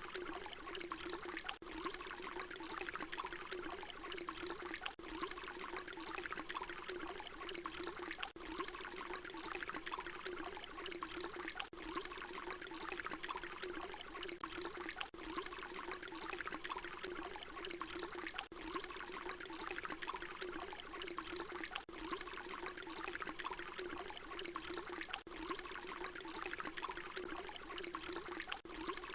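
Water pouring in a steady continuous stream, with a slight break about every three and a half seconds where the short recording loops.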